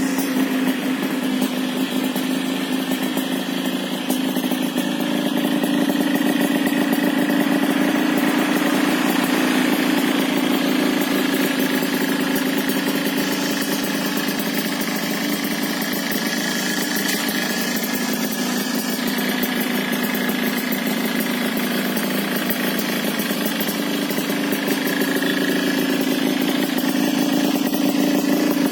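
Yamaha RX King two-stroke single-cylinder engine idling steadily through a telo-model aftermarket racing exhaust.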